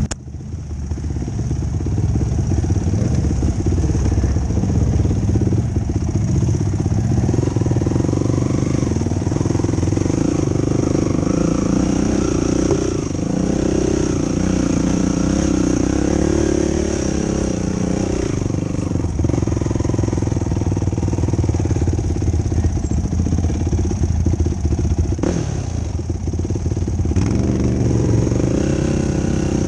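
Yamaha YFZ450 quad's single-cylinder four-stroke engine running continuously while riding, its note rising and falling with the throttle.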